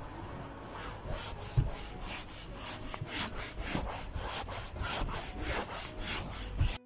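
Rhythmic back-and-forth scraping strokes, about three a second, cutting off suddenly just before the end.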